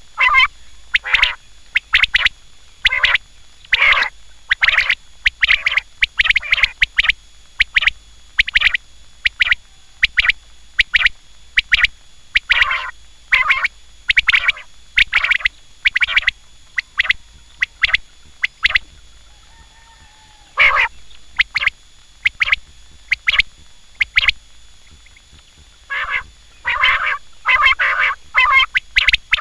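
Quail calling over and over: short, harsh call notes about once or twice a second, sometimes in quick pairs, with a pause of a few seconds about two-thirds through and then a fast run of calls near the end.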